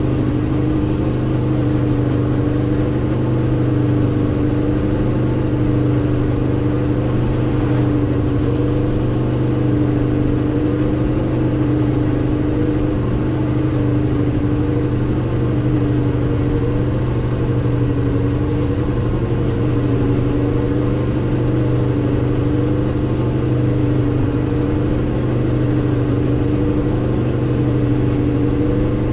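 2016 Aprilia RSV4 RR's V4 engine through its stock exhaust, running at a steady, nearly constant pitch with only slight rises and dips.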